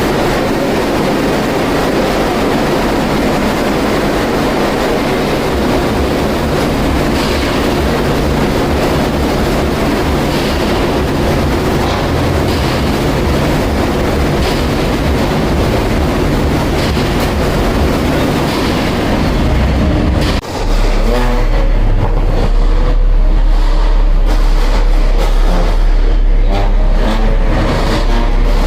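Loud, steady vehicle noise, a dense rumble with hiss. About twenty seconds in it cuts abruptly to a deeper low rumble.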